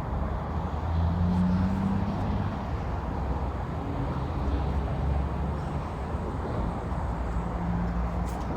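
Road traffic crossing the bridge overhead: a steady low rumble of vehicles, swelling as cars pass about a second in and again near the end.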